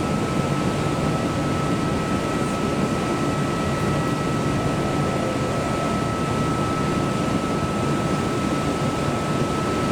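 Steady hum and rush of a stationary electric train's air-conditioning and auxiliary equipment, with a thin, steady high whine held throughout.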